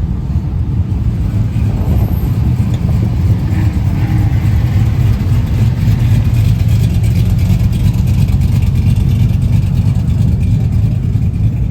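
A motor vehicle's engine running with a loud, steady, deep low rumble.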